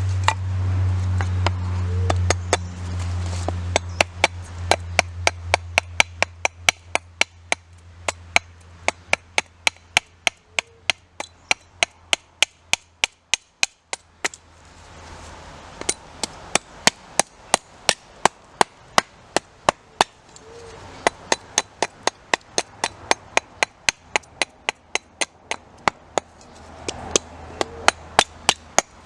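Wood being chopped: sharp, even strikes, about two or three a second, with a short break about twelve seconds in. A low steady hum fades out over the first several seconds.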